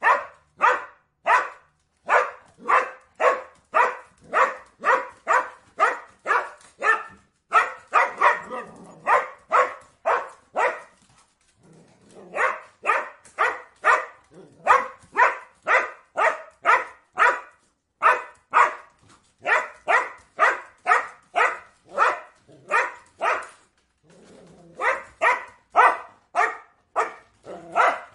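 Border collie barking over and over in a steady, monotonous run, about two and a half barks a second, with short breaks twice: the repetitive barking of a bored dog.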